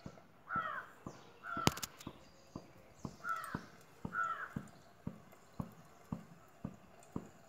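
A bird outside calling four times, short arched calls in the first half, over a soft regular ticking about twice a second.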